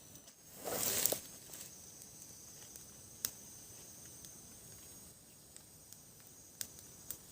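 A brief rustle about a second in, then a faint outdoor background with a few light ticks and taps.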